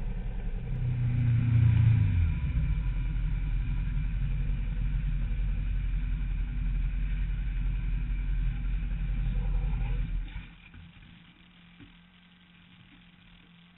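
Sport motorcycle engine idling with a low rumble, briefly louder about a second in. About ten seconds in the sound drops off sharply, leaving only a faint low hum.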